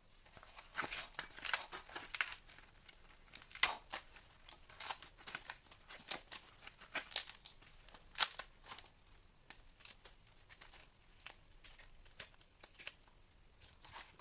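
Irregular crinkling and tearing rustles of something being handled, in short sharp strokes a few times a second.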